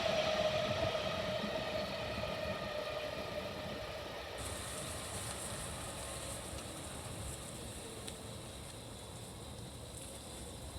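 Freight train running past at speed and moving away: its rail rumble and a steady hum sink slightly in pitch and fade out.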